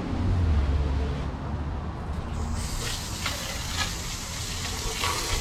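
Water spraying onto a car's engine bay as it is washed down after degreasing: a low hum for the first couple of seconds, then a steady spray hiss from about two and a half seconds in.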